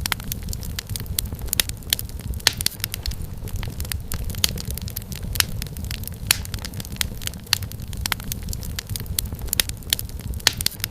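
Wood fire crackling in a fireplace: frequent sharp irregular pops and snaps over a steady low rumble of the burning logs.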